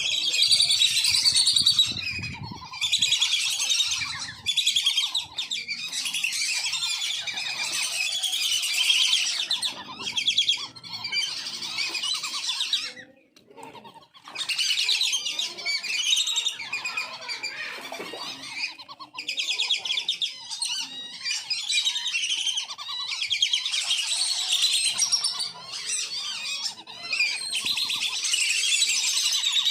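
Flock of wandering whistling ducks (belibis kembang) calling together: a dense, continuous chorus of high whistles and chattering calls, with a brief lull about 13 seconds in.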